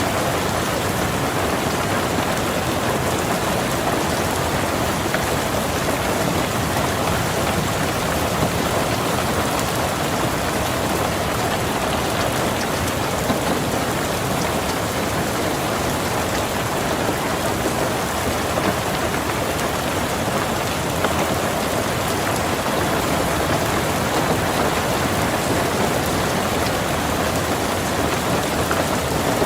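Steady rain falling on a car's roof and windows, heard from inside the car: an even hiss with a louder drop hitting now and then.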